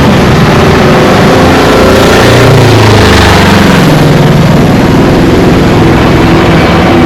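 Dense road traffic: vehicle engines running, loud and continuous, with a heavy engine's low hum swelling about two and a half seconds in and fading about two seconds later.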